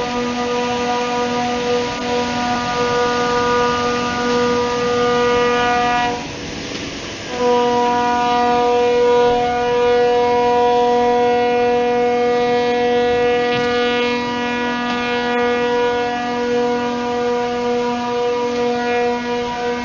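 Ship's horn sounding long, steady blasts for a ship launch, breaking off for about a second some six seconds in before sounding again.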